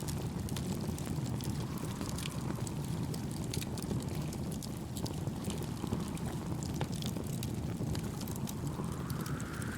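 Layered nature-ambience mix: a wood campfire crackling with many small sharp pops over a steady low rumble of wind and waves, with a whoosh that swells near the end.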